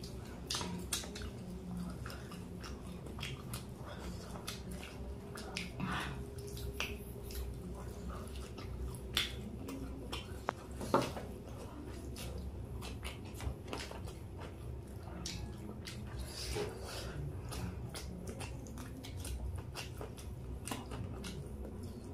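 Biting and chewing chicken lollipops: irregular mouth clicks and smacks close to the microphone, with one sharper click about eleven seconds in.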